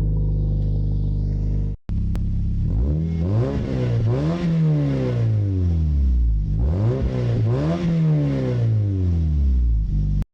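Toyota Yaris T-Sport engine heard close at the tailpipe of its new stainless steel cat-back exhaust with silencer. It idles steadily, then after a brief break is revved twice, the pitch climbing and falling back slowly each time.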